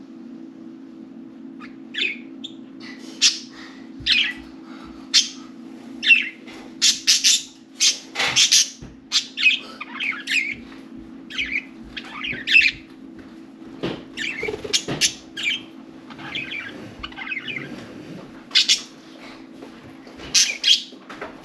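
Pet budgerigars chirping and chattering in a run of short, rapid calls, starting about two seconds in, over a steady low hum.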